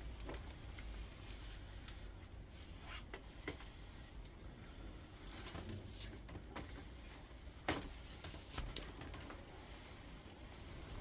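Faint handling noise from taking apart an induction hob: scattered light clicks and scrapes of metal parts and copper coil wire being worked by hand, with one sharper click about three quarters of the way through.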